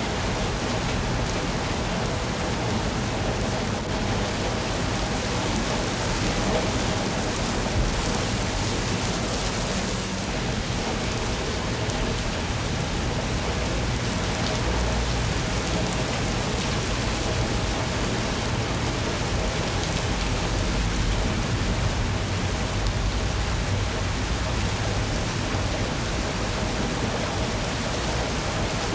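Steady rain falling and pattering on surfaces, an even hiss with no breaks. A low rumble swells beneath it about halfway through and again later.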